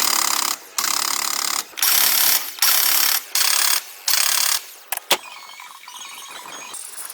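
A power tool run in about six short bursts of under a second each, with brief pauses between, then a quieter stretch near the end.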